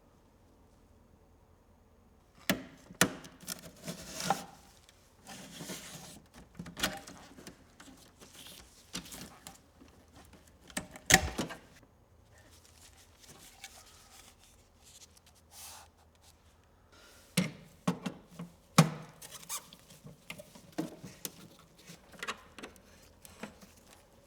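Handling noise of a Macintosh Performa 580CD being taken apart: irregular clicks, knocks and scraping of its plastic case and metal parts. It starts after about two seconds of quiet, with the loudest knocks near the middle and again toward the end.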